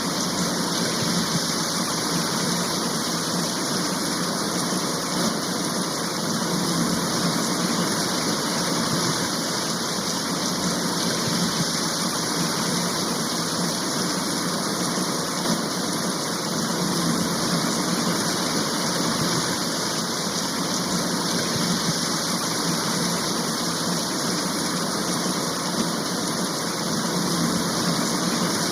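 Steady downpour of a rain shower, an even hiss that stays the same throughout.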